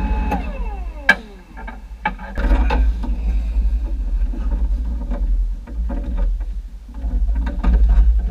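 A tractor's cab blower fan winds down, its whine falling in pitch over the first second and dying away. A low steady rumble then runs on, with scattered clicks and knocks.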